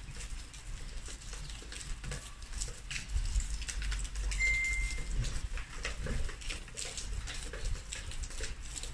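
Rain pattering and dripping, heard as many irregular sharp ticks of drops, over a low rumble of wind on the microphone. A short, high, steady beep-like tone sounds once about four and a half seconds in.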